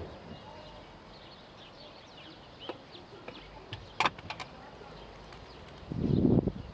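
Small birds chirping faintly in the background, with a sharp click about four seconds in and a short, louder low rumble near the end.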